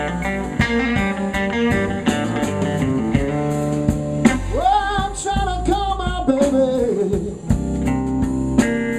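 Live electric blues band playing a slow blues: electric guitar fills with bent notes over bass and drum kit, with the bends most prominent in the middle of the passage.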